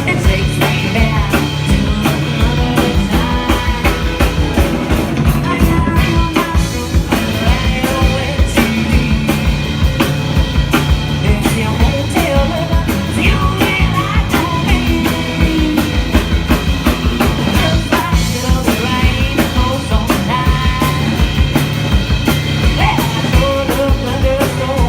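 Live band music: a drum kit keeps a steady, driving beat under the rest of the band.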